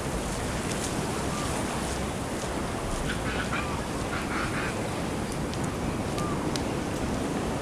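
Steady wash of surf and wind on the microphone, with a brief cluster of short calls around the middle and a few faint chirps.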